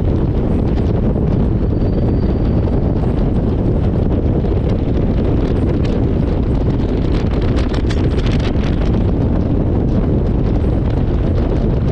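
Wind buffeting the microphone of a camera on a moving motorcycle: a steady, loud, low rush of wind noise that masks the engine and the road.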